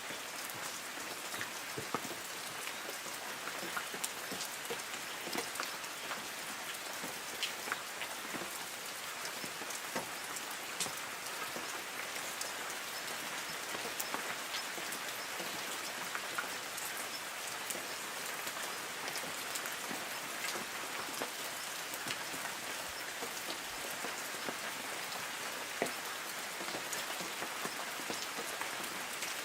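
Light rain falling on forest trees: a steady patter with frequent individual drops ticking on leaves.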